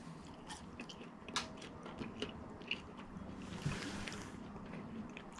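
Faint mouth sounds of a man chewing fast food close to the microphone: soft scattered clicks and smacks, with a short soft rustle about four seconds in.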